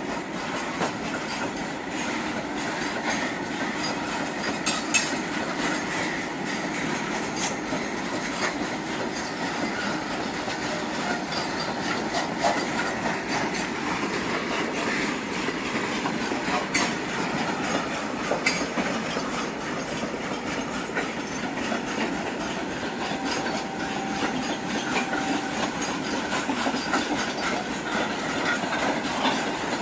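Freight train wagons rolling past close by: steel wheels running over the rails with a steady rumble and clatter, and a few sharp clicks along the way.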